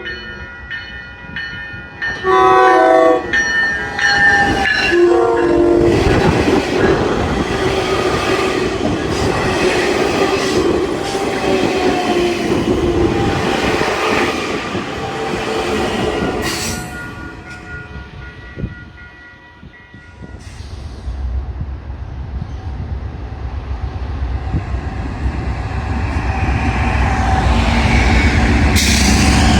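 A locomotive's multi-chime air horn sounds two short blasts, then a train passes close by with its wheels clattering over the rail joints, and the sound fades away. A deep rumble builds again near the end.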